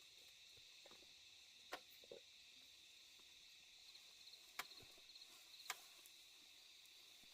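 Faint steady high chirring of night insects, with three sharp clicks or snaps standing out, the first a couple of seconds in and two more close together later on.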